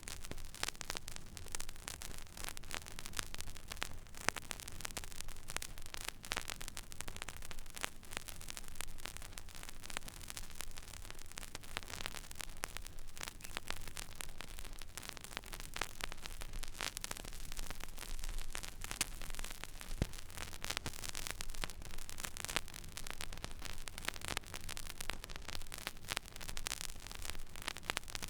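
Record player stylus riding an empty vinyl groove: steady surface hiss with dense, irregular crackle and pops over a low hum.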